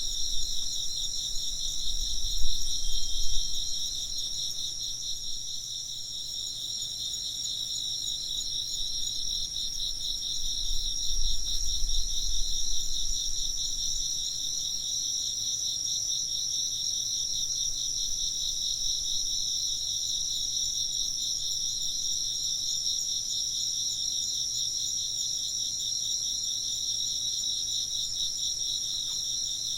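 A dense chorus of crickets chirping steadily, a fast pulsing trill in two high-pitched layers. Twice, in the first few seconds and again around ten to fourteen seconds in, a low rumble swells up under it.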